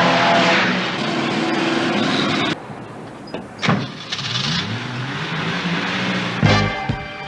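Muscle-car V8 engines running hard in a chase, the engine pitch climbing as a car accelerates. The sound drops off abruptly about two and a half seconds in.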